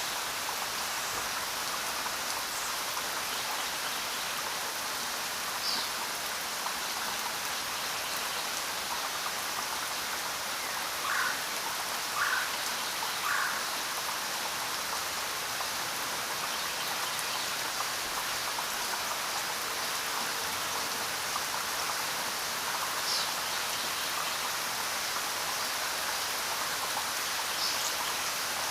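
Steady rain falling, an even hiss of drops. A few faint short chirps sound over it: three in quick succession midway, and single higher ones earlier and near the end.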